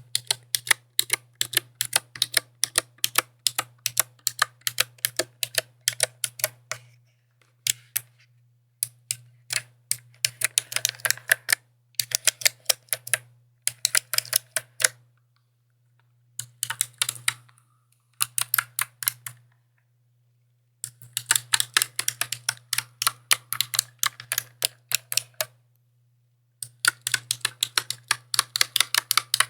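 Mechanical keyboard being typed on in quick runs of crisp key clicks, with brief pauses between the runs.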